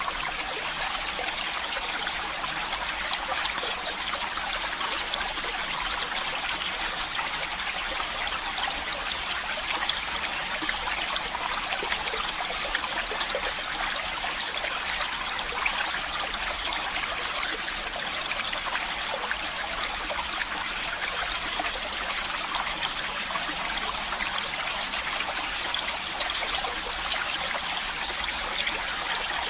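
Stream water running and trickling steadily, an even hiss with fine splashing flickers.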